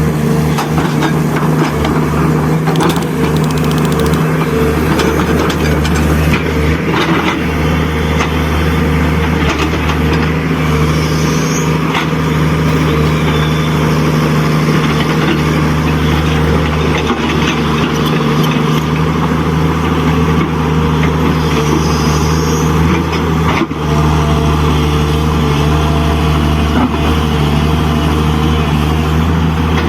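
Diesel truck engine sound, running as a steady low drone with little change in pitch, as played by a radio-controlled dump truck's engine-sound unit.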